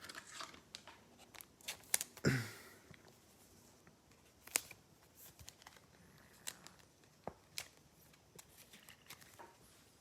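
Faint handling of trading cards and pack wrappers: scattered light clicks, taps and rustles, with a short rustle about two seconds in and a sharper click near the middle.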